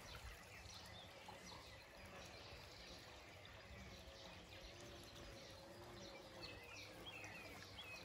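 Faint songbird calls: short high chirps and whistles scattered throughout and thicker near the end, over a quiet outdoor background.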